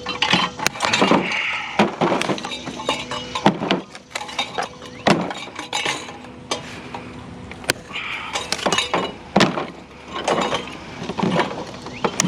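Hard clinking, knocking and cracking of metal scrap parts being pried and popped apart by hand, in irregular separate strikes.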